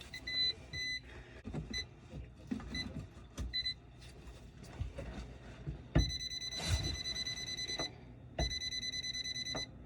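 An electronic alarm beeper sounding: a few short high beeps, then two runs of rapid beeping in the second half. Knocks and scraping from hand work run underneath.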